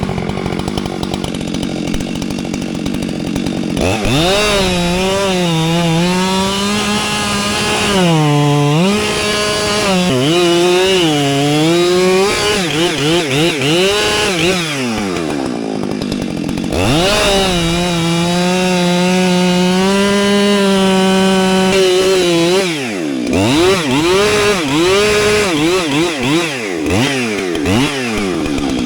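Two-stroke chainsaw revved up about four seconds in and cutting wood, its engine note dipping and recovering as the chain loads in the cut. Twice the throttle is blipped in quick rapid revs between stretches of steady cutting.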